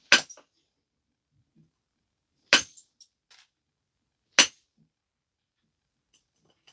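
A stone biface being flaked: three sharp, glassy clicks, spaced a couple of seconds apart, as flakes come off the edge.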